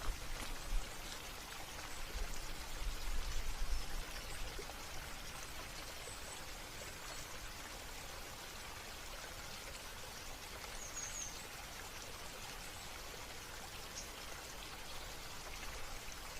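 Steady splashing and trickling of running water, with a few faint high chirps, likely birds, and a brief low rumble about two to four seconds in.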